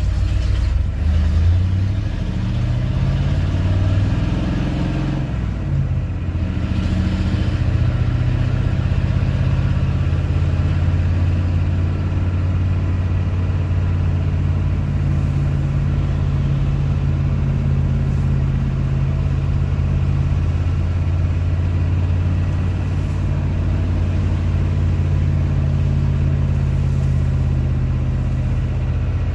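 The 1989 Ford F-350's 7.3 IDI non-turbo V8 diesel runs through straight pipes, its mufflers cut off. It revs up and drops back over the first several seconds, then settles into a steady idle.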